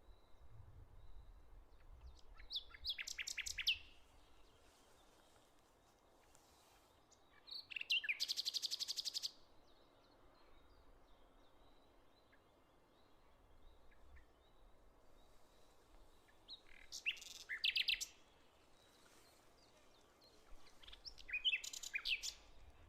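Songbirds singing in four separate short phrases. The one about eight seconds in is a fast trill.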